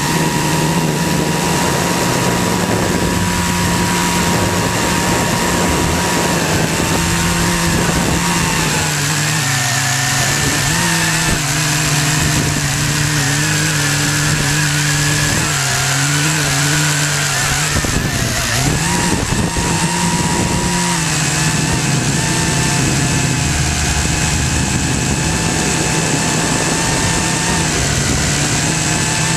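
Syma X8C quadcopter's four motors and propellers whirring steadily, the pitch shifting up and down several times in the middle as the rotor speeds change.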